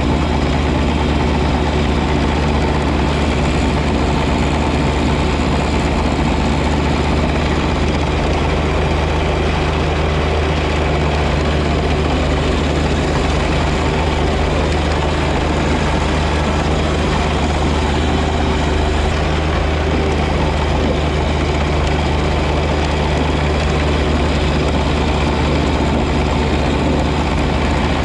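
John Deere 1025R compact tractor's three-cylinder diesel engine running steadily at constant speed with its 54-inch snow blower, a deep even engine hum under a constant rush of noise.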